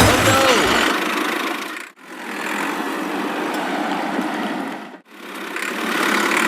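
Small engine running steadily, cut off twice by brief dropouts about two and five seconds in.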